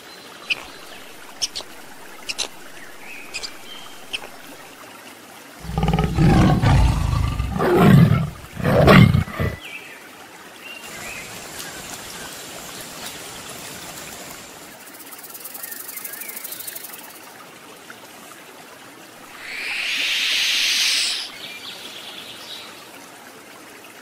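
A string of different animal sounds. The loudest is three deep, loud calls in a row about six to nine seconds in, and a short hissing burst comes about twenty seconds in.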